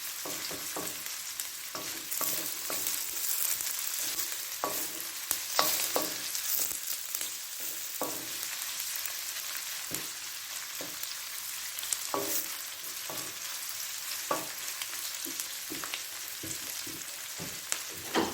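Garlic and onions frying in olive oil in a pan, a steady sizzle, with irregular clicks and scrapes of a utensil stirring them against the pan.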